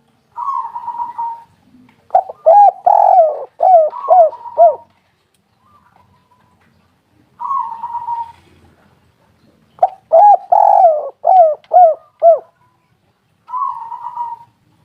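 Spotted dove (tekukur) cooing: a rough opening note, then a quick run of short coos that each rise and fall. The whole phrase comes twice, and a third opening note follows near the end.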